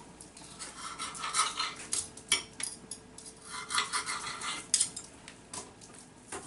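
Knife and fork scraping and clinking on a plate in several short bursts as a piece of beef is cut.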